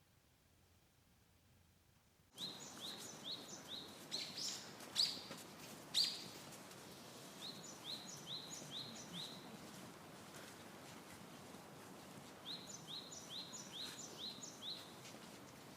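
A songbird singing outdoors, repeating a phrase of four to six quick rising chirps three times, with a couple of sharper, louder notes in between, over a faint steady outdoor hiss. It starts suddenly about two seconds in, after near silence.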